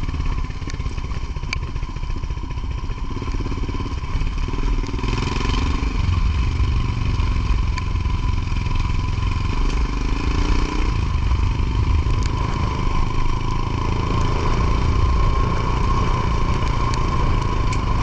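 Motorcycle engine running while riding, with steady road and wind noise; the engine note changes briefly twice, about five and ten seconds in.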